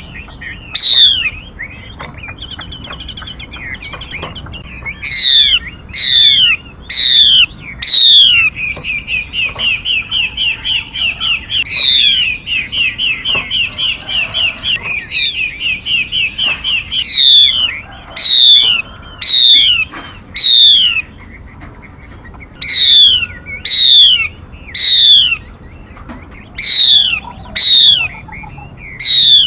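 Recorded lure calls of a female 'mi' songbird. Loud, sharp notes sweep steeply downward, repeated in runs of two to six. In the middle comes a fast chattering series of shorter notes, about three a second, lasting some eight seconds.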